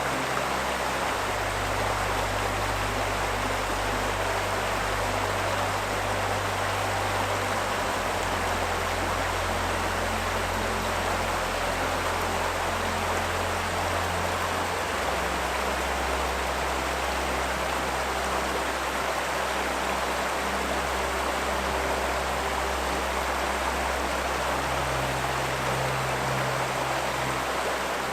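River water rushing steadily, with soft background music underneath: low held notes that change every few seconds.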